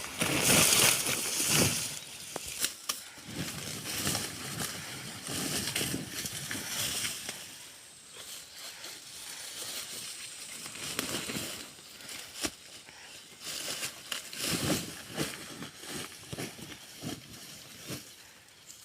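Irregular rustling and crunching of dry plant material, with scattered sharp cracks and snaps. It is loudest in the first couple of seconds, with another run of crunches near the end.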